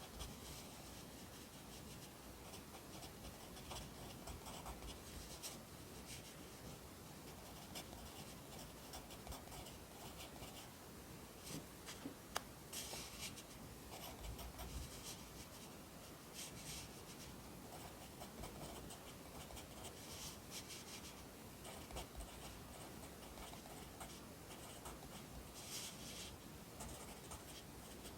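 Pencil writing Korean characters on paper: short, scratchy strokes in irregular bursts, with one sharp tap about twelve seconds in.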